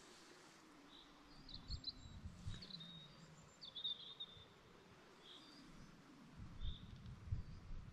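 Quiet outdoor ambience with a small bird giving short, high chirps every second or two. A few low thuds come in bunches, about two seconds in and again near the end.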